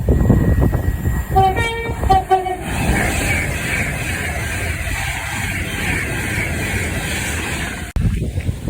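A train horn sounds a quick series of short two-tone blasts about a second and a half in. Then the train passes with a steady rushing rail noise, which cuts off suddenly near the end.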